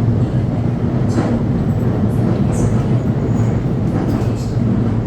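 Commuter subway train running along the track: a steady, unbroken low rumble with faint brief high hisses or squeaks about one and two and a half seconds in.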